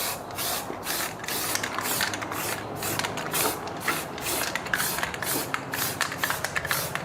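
Rhythmic rubbing strokes by hand on a surface, about three a second, like sanding or scrubbing a part.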